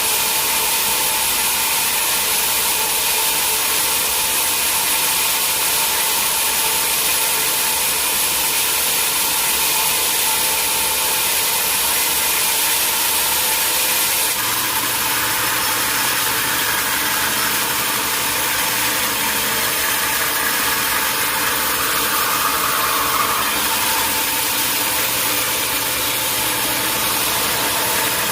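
Sawmill machinery running steadily, a loud continuous mechanical noise with no cutting strokes standing out. The sound changes character abruptly about halfway through.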